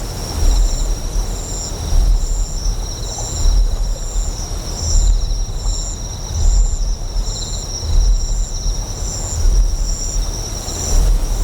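Designed ambience of a large generator's deep hum swelling in a slow pulse about every one and a half seconds. Over it runs a steady high insect chirping that beats evenly, with a hiss of flowing water beneath.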